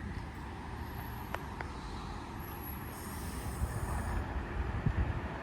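H-set (OSCAR) electric multiple unit train with a steady low rumble at the platform. There are a couple of sharp clicks about a second and a half in, and heavier low thumps build over the last two seconds.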